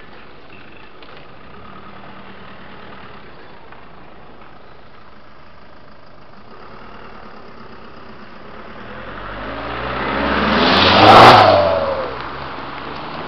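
Volkswagen Passat 2.0 TDI diesel with a custom exhaust driving past. Its exhaust note builds over about three seconds to a loud peak around eleven seconds in, then drops in pitch and fades quickly as it pulls away.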